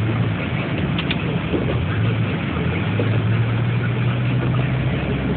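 Car engine running steadily with a constant low hum.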